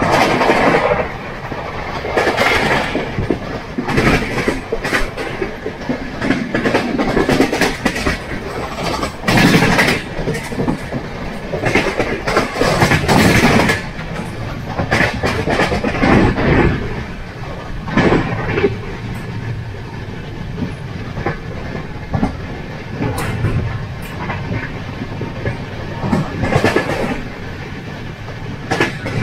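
Passenger express train running at about 110 km/h, heard from inside a coach: a steady rush of running and wind noise, broken every few seconds by loud, irregular clatters of the wheels over rail joints.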